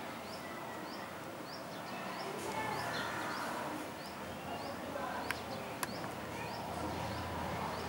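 Birds calling in the background, one repeating a short, high chirp about every half second while others call more faintly. Two sharp clicks come about five seconds in.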